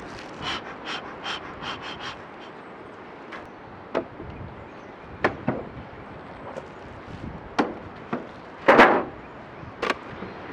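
A few quick hissing puffs from a bee smoker's bellows, then scattered knocks and taps of wooden hive boxes and covers being handled and pried open, with one louder scraping clunk near the end.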